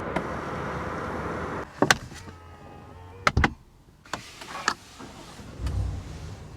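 Cadillac Escalade sounds: a steady running hum that drops away after about a second and a half, then several sharp clicks and knocks from the vehicle's body mechanisms, and a soft low thud near the end.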